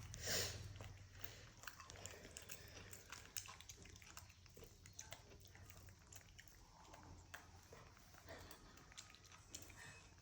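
Faint, scattered small clicks and smacks of a monkey chewing food, with a brief rustle just after the start.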